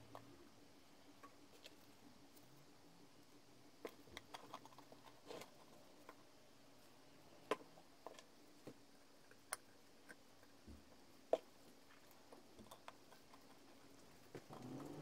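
Scattered light clicks and taps of small hard objects being handled, with a few sharper knocks, over a faint steady hum.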